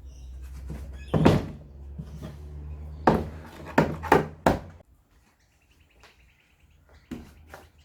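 A series of sharp knocks and thuds over a low steady hum. The hum cuts out about five seconds in, and two more knocks come near the end.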